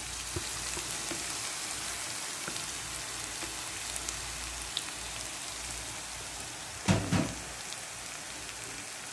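Crushed garlic, ginger, green chilli and curry leaves frying in hot oil in a kadhai, a steady sizzle, with one short louder sound about seven seconds in.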